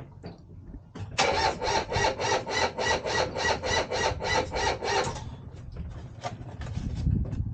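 A sailboat's diesel engine being cranked by its electric starter after glow-plug preheating: a fast, even chugging of about four beats a second, lasting about four seconds, then the cranking stops.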